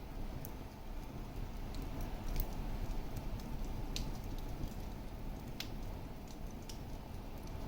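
Wood fire burning in a fireplace: a steady low rush of flames with scattered sharp crackles and pops, the clearest about four and five and a half seconds in.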